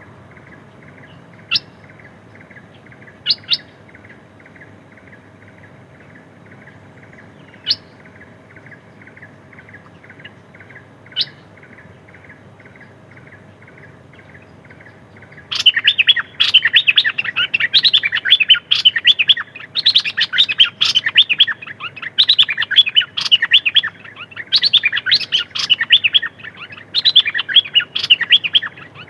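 A songbird calling: faint short notes repeated about twice a second with a few sharp clicks, then from about halfway a loud, fast twittering song that goes on to the end. This is a decoy bird used to call in wild birds of its kind.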